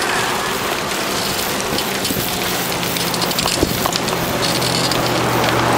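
Wind and road noise on the microphone while riding with a group of BMX bikes, with a steady low engine hum from a nearby motor vehicle coming in about two seconds in.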